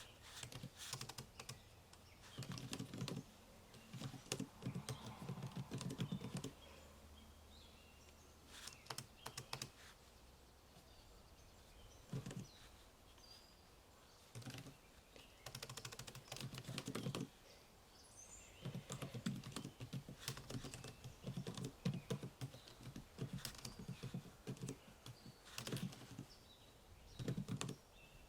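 Typing on a computer keyboard: bursts of quick keystrokes broken by short pauses.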